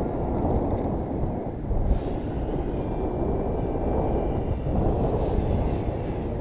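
Strong wind buffeting the microphone, with the faint high whine of a model plane's motor overhead from about two seconds in.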